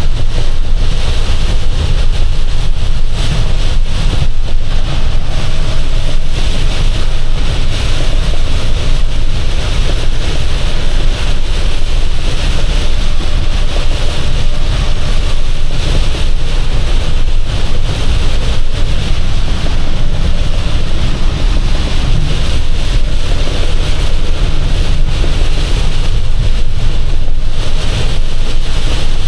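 Steady, loud road noise inside a box truck's cab at highway speed: a low rumble from the engine and tyres with a constant hiss of wind and road spray.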